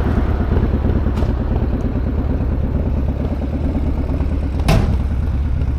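1965 GMC pickup truck's engine running steadily with an even low rumble, heard from inside the cab, with one sharp click about three-quarters of the way through.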